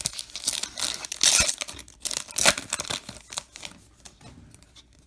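A trading-card pack wrapper being torn open and crinkled by hand, in irregular rustling bursts, the loudest a little over a second in and about halfway through, dying away near the end.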